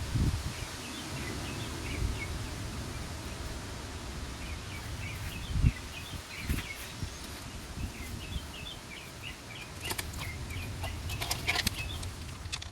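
Outdoor ambience of small birds chirping in short repeated calls, over a low wind rumble on the microphone, with a few thumps and a burst of sharp clicks and rustling near the end.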